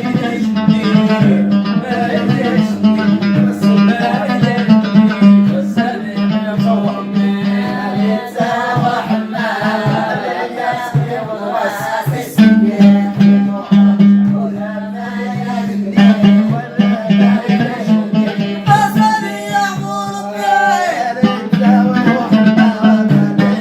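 Amazigh folk music: a voice singing over plucked strings, with a steady low droning note and a quick percussive pulse.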